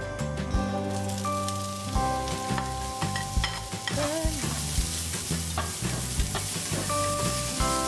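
Diced onion dropped into hot olive oil in a non-stick frying pan starts sizzling about a second in, then keeps frying while a spatula stirs and scrapes it across the pan. Background music plays underneath.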